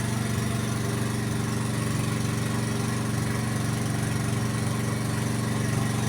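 Engine of a well-drilling machine running steadily at an even speed.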